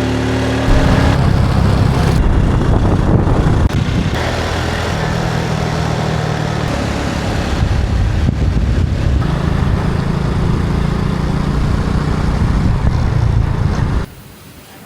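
Motorbike engine running while riding along, under a steady rush of noise. The sound drops off abruptly near the end.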